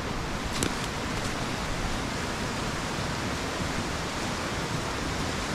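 Steady rush of a shallow mountain river flowing over rocks.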